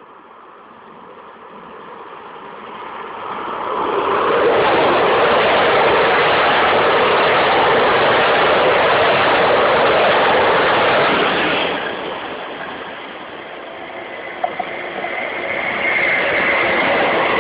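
A train passing: its rolling noise builds over a few seconds, stays loud for about eight seconds, then eases off. Near the end a second rise begins, with a faint high squeal.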